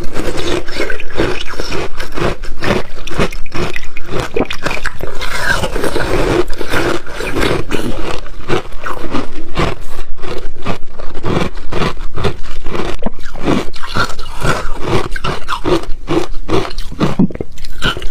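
A person biting and chewing ice: a fast, irregular run of loud crunches and cracks.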